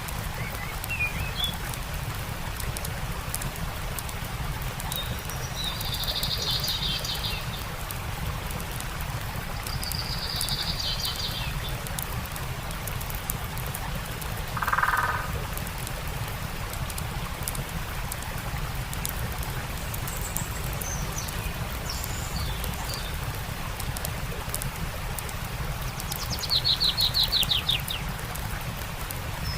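Steady rush of a stream with a campfire crackling in fine, scattered snaps, while songbirds call a few times; the loudest is a fast trill near the end.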